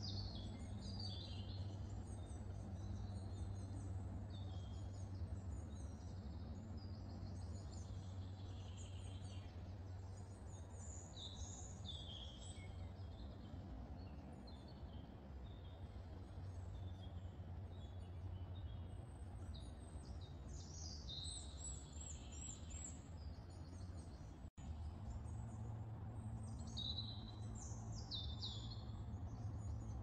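Several songbirds singing, with short chirps and trills one after another over a steady low background hum. The sound drops out for an instant late on.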